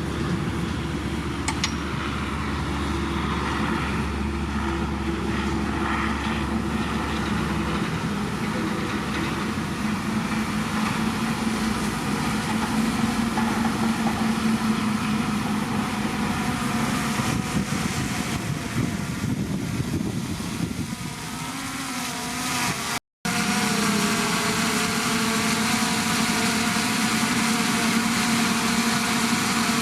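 Diesel engines of heavy earth-moving machinery, a bulldozer and dump trucks, running steadily under work. The sound breaks off for a moment about 23 seconds in and picks up again with a similar engine note.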